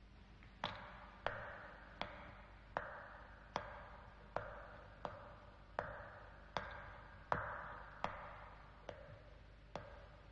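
Cartoon sound effect: a faint, sharp ping, each with a short ringing tail, repeated steadily about every three-quarters of a second.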